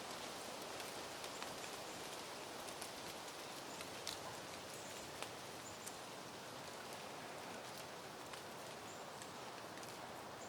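Light breeze rustling through peony plants: a soft, steady hiss with scattered faint clicks.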